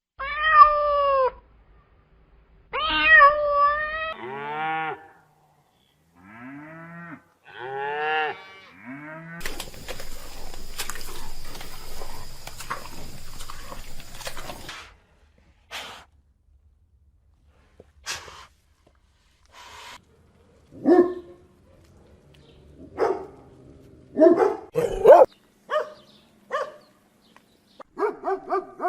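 Domestic cat meowing repeatedly, about six long calls that rise and fall in pitch. Then comes a few seconds of steady hiss with a faint high whine, and after that scattered short animal calls.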